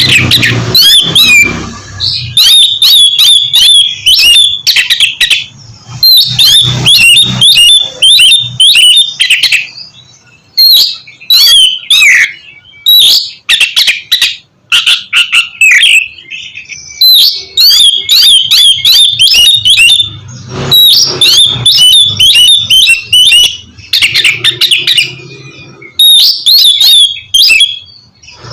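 Oriental magpie-robin (kacer) singing loudly in fast, varied phrases a few seconds long, broken by short pauses.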